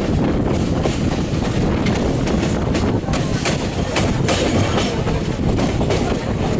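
Passenger train running along the line, heard from beside its coach: a steady rumble of wheels on rails with a scatter of sharp clicks and clatter from the track.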